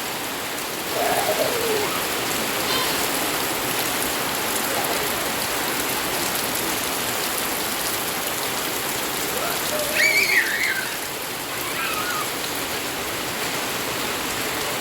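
Steady rain pouring down, a dense even hiss of drops hitting the ground, with a brief high-pitched call about ten seconds in.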